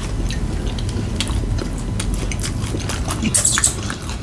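Close-up chewing and mouth sounds of someone eating a fried chicken sandwich, with scattered small clicks over a low rumble and a short crackly burst about three and a half seconds in.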